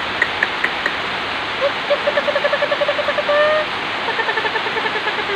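Steady rain falling, a constant hiss. Twice a rapid trilled call cuts through it, each a pulsing series of about ten notes a second lasting one to two seconds, the second a little lower in pitch.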